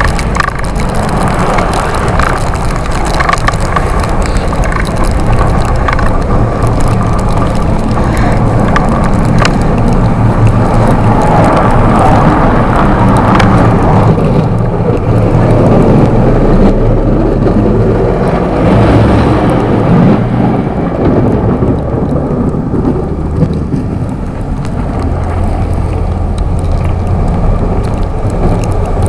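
Loud, steady wind rumble buffeting the microphone of a camera mounted on an electric bike riding at speed.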